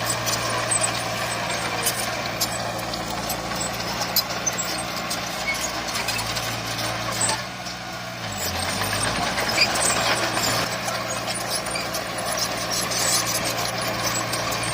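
Heavy diesel earthmoving machinery running steadily, with scattered sharp clicks and knocks. A little past halfway the engine note drops lower and quieter for a second or two, then picks up again.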